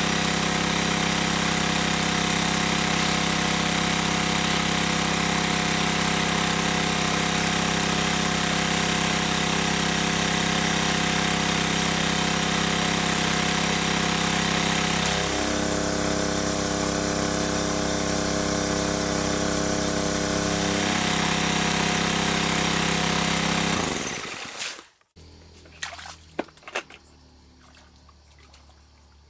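A motor running steadily, its pitch shifting slightly about halfway through, then shutting down near the end. Faint scattered clicks and a little water sound follow.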